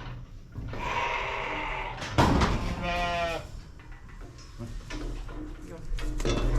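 Sheep bleating twice: a first call, then a louder, wavering one.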